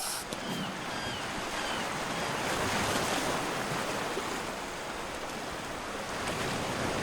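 Sea waves washing onto the shore, a steady rushing noise with some wind, and a few faint high chirps in the first second or two.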